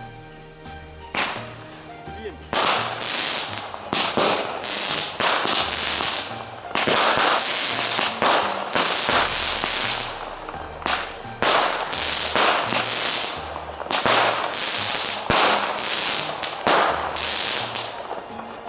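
Small 'Gnom' fireworks cakes firing shot after shot, each a sudden hissing burst, about one a second, starting about a second in and stopping near the end. Background music plays under them.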